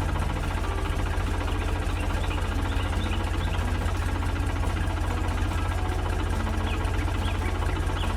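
Heavy farm machine's engine running steadily with a fast, even throb, like a large diesel at idle.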